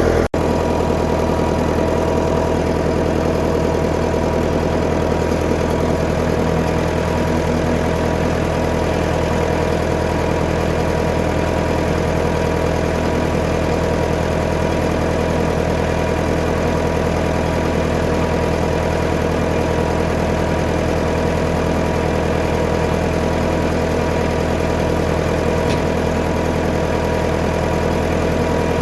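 1959 Fordson Power Major tractor's four-cylinder engine running at a steady, even speed.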